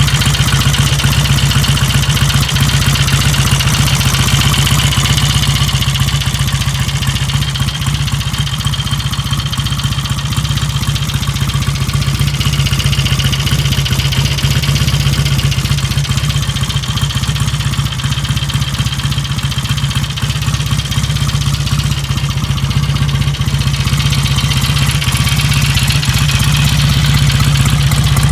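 1953 Royal Enfield Meteor's 700cc parallel-twin engine idling steadily.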